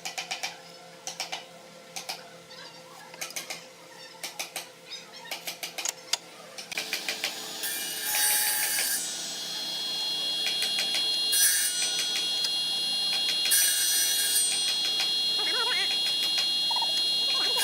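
Irregular light taps and knocks of woodworking, then from about seven seconds a power tool running with a steady high whine and repeated bursts of hiss.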